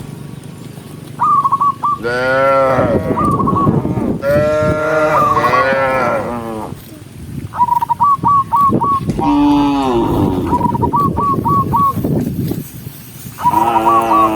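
Several cows mooing in turn, each moo a long, drawn-out call, with some calls overlapping.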